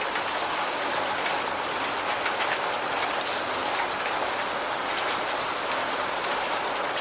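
Steady rain falling and pattering on a surface, an even hiss with scattered sharp drop strikes.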